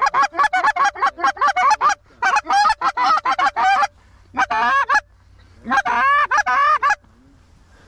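Goose honks and clucks, rapid and loud, coming in four quick bursts with short gaps and stopping about a second before the end.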